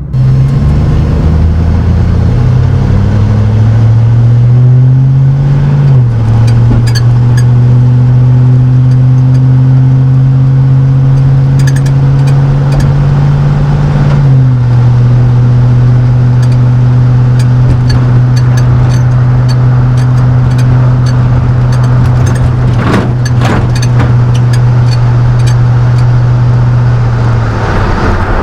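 1999 Chevrolet Silverado's 5.3L LM7 V8 exhaust through a Cherry Bomb straight-through muffler under acceleration while driving. The engine note climbs, drops at an upshift about six seconds in, climbs again and drops at a second upshift around fourteen seconds, then holds a steady drone.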